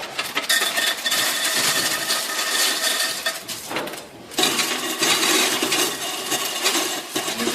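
Hand tools scraping and clinking during masonry work on the fireplace, in two stretches with a short pause about four seconds in.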